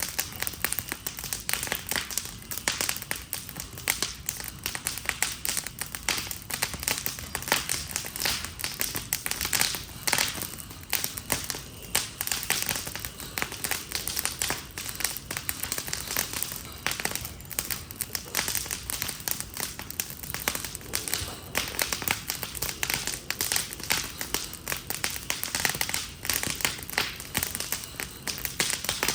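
Fire burning an Adirondack chair, crackling with dense, irregular pops and snaps over a steady hiss, many pops a second.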